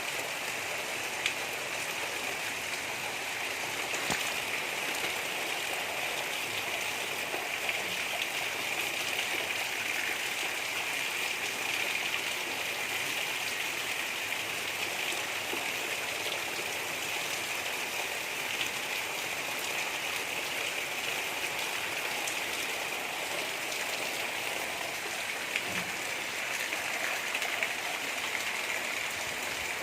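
Steady rain falling with a dense, even hiss and scattered soft drop ticks, without thunder or wind.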